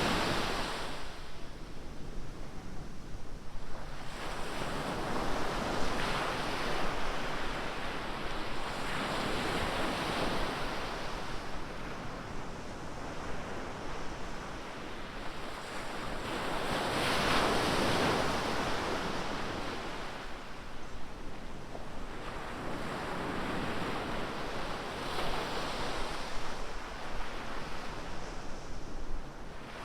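Ocean surf: waves breaking and washing up the beach in swells every few seconds, one of the largest about halfway through, with some wind on the microphone.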